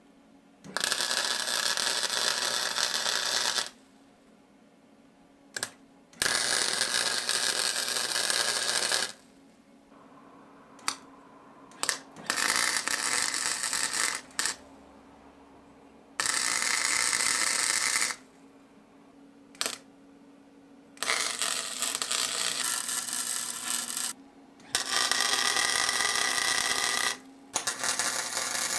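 Welding on steel tube: about six runs of steady crackling arc noise, each two to three seconds long, with a low hum during each run and short quiet pauses with a few clicks between them.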